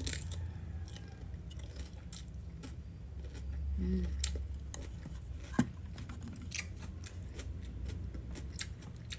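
Crunching and sharp irregular clicks of raw cucumber being chewed close to the microphone, with a brief hummed sound about four seconds in, over a steady low hum.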